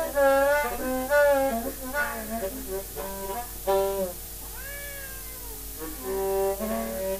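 Blues harmonica playing held notes while a cat meows along, repeated meows that slide up and down in pitch, as a mock cat-sung blues.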